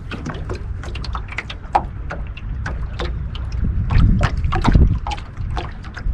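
Wind buffeting the microphone in a low, gusting rumble, strongest about four to five seconds in, with scattered small clicks and knocks of handling over it.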